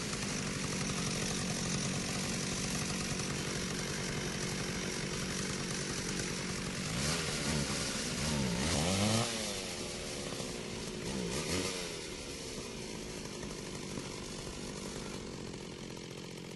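Chainsaw engine running steadily at idle, revved up and down twice around the middle.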